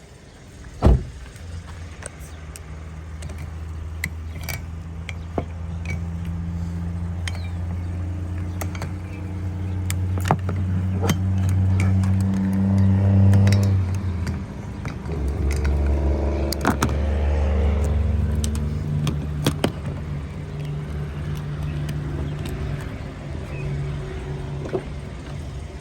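Car engine running with a steady low hum that rises and shifts in pitch partway through, with a sharp thump about a second in and scattered clicks and taps.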